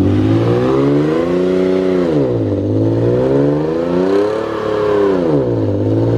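Car engine revving up and back down over and over, held high for a second or two each time. The pitch drops about two and a half and five and a half seconds in, and is climbing again at the end.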